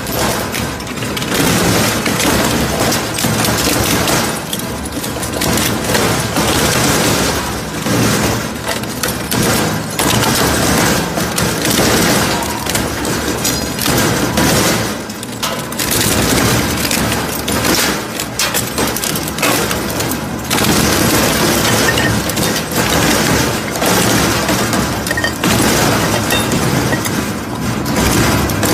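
Crusher machine running loaded, breaking up material with a dense, continuous clatter of cracks and impacts.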